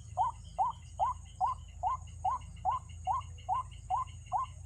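White-breasted waterhen call: a short upward-sliding note repeated evenly, about two and a half times a second.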